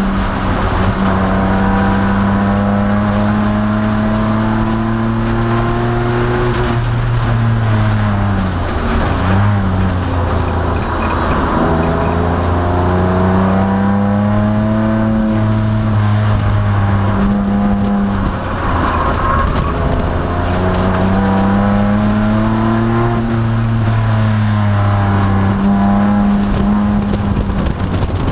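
2002 Nissan Maxima's 3.5-litre V6 under race load, its pitch falling as the car slows for corners and climbing again under acceleration, three times over.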